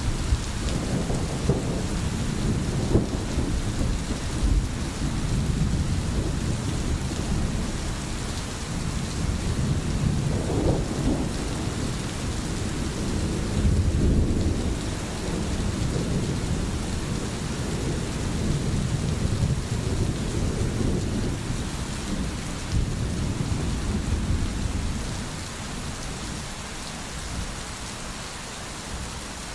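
Steady rain hissing, with low thunder rumbling and swelling underneath that dies down in the last few seconds.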